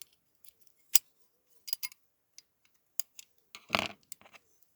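Sharp clicks and taps of small metal parts of a diecast toy car and tools being handled, with a short, louder scraping rattle a little past the middle.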